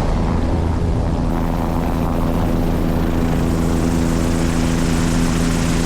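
Helicopter's turbine engine and rotor running steadily, a constant drone with a few held tones through it.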